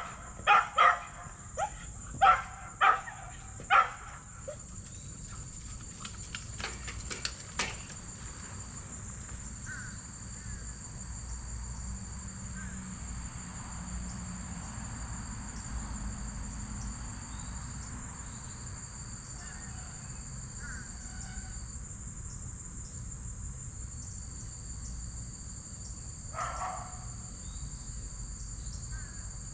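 Insects trilling steadily at a high pitch, with a second, lower trill coming and going. In the first four seconds a run of loud, harsh calls about half a second apart cuts through, and one more call comes near the end.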